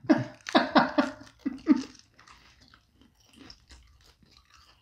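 Close-miked biting and chewing of thin, crisp flatbread pizza, with several sharp crunches in the first two seconds and then quieter, scattered crunching.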